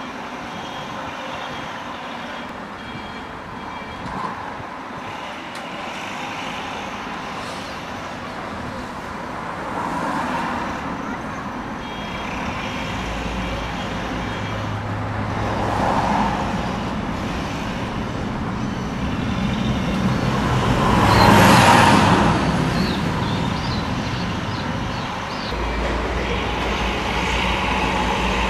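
Street traffic with heavy trucks driving past one after another, each pass swelling and fading, the loudest about three quarters of the way through, with a low engine rumble under the later passes.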